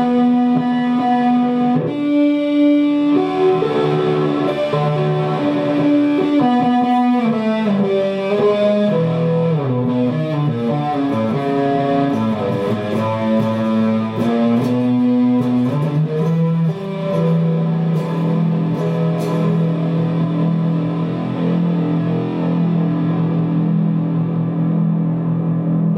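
Electric guitar music played through effects with some distortion, a string of changing notes that settles onto a held low note in the second half.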